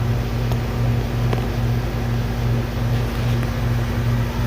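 Heat pump air handler running with its blower fan on, a steady low hum with a low drone that throbs about twice a second. The system is being run in heat mode to thaw its frozen-up indoor coil.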